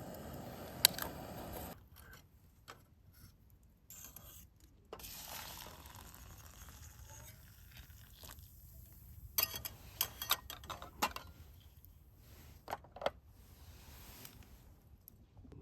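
Small objects being handled: a steady hiss with one sharp click about a second in, then scattered scrapes and clicks, clustered around ten seconds in and again around thirteen seconds in.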